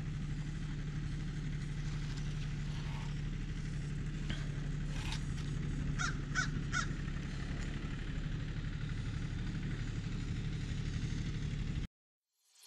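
A bird calling three times in quick succession about six seconds in, with a few fainter calls just before, over a steady low hum. Everything cuts to silence just before the end.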